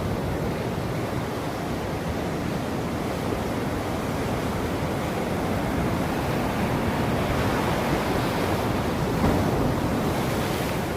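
Ocean surf washing steadily, with a wave building louder and brighter in the second half before easing off near the end.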